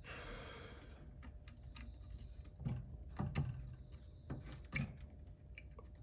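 Brief rustle, then light clicks and taps from cable connectors and wiring being handled on a Commodore 8050 floppy drive mechanism, about six scattered over a few seconds.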